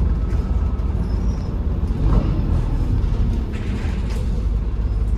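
Steady low rumble of a MAZ-203 city bus heard from inside the cabin, the bus idling at a stop.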